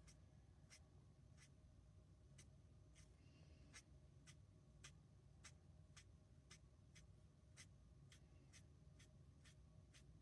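Faint quick strokes of a marker tip flicked across cardstock while feathering colour, a short scratchy tick about twice a second.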